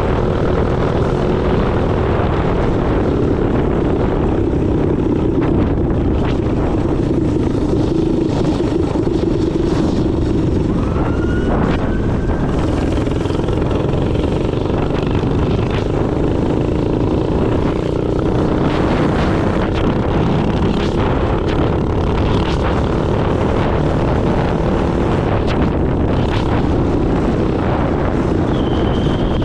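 Minibike's small engine running steadily under way, its tone holding fairly even, over a heavy low rushing noise.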